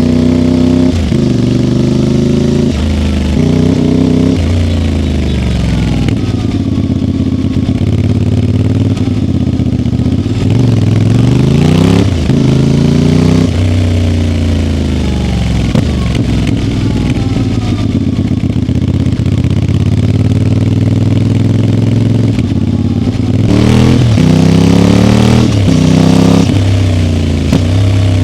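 CFMoto 450MT's parallel-twin engine being ridden: the revs climb and then drop sharply at each gear change, and several times they slide down as the bike slows before climbing again.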